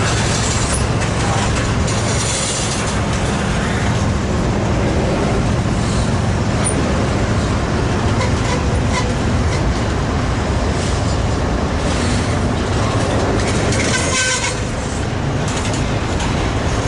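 BNSF intermodal freight train's cars rolling past, a steady loud rumble of steel wheels on the rails.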